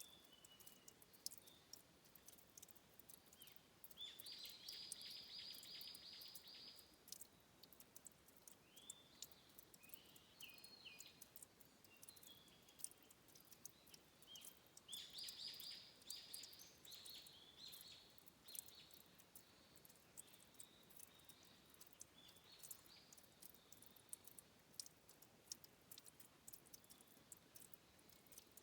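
Faint headwater-spring ambience: scattered sharp drip-like ticks of water, with high, buzzy trilling animal calls, a long one about four seconds in and another about fifteen seconds in, and shorter calls between.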